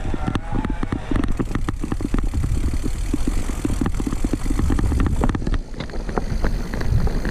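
Mountain bike rolling over a rough forest trail: a low tyre rumble with a dense rattle of knocks and clicks from the bike as it bumps over the ground.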